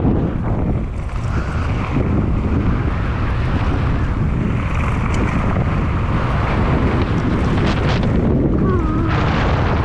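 Wind buffeting the microphone during a fast mountain bike descent, a steady loud rush, with a few rattles and knocks from the bike over rough ground near the end.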